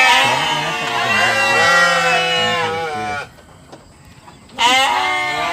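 Sheep bleating: two long, wavering calls with a short pause between them.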